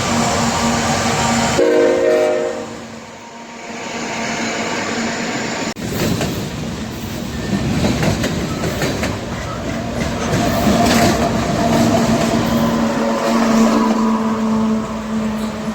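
A train passing close by: the locomotive's engine hums steadily, a short horn chord sounds about two seconds in, and through the second half the wheels clatter over the rails with many quick clicks.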